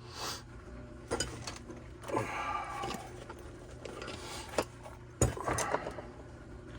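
Small hard objects being handled, clinking and knocking, with sharp knocks about a second in and a little after five seconds.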